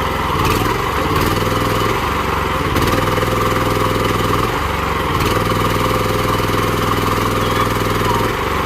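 Small engine of a towable backhoe excavator running steadily while its hydraulic levers are worked; the engine note dips and recovers several times as the hydraulics take and release load.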